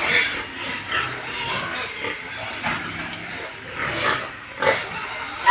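Several pigs grunting and calling in short, irregular bursts, one after another, with a few louder calls toward the end.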